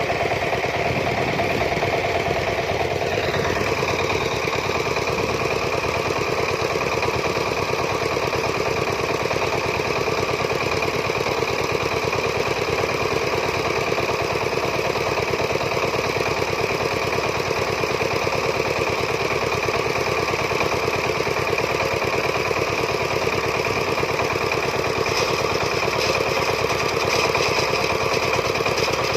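Farm diesel engine running steadily, its rapid even firing unchanged throughout.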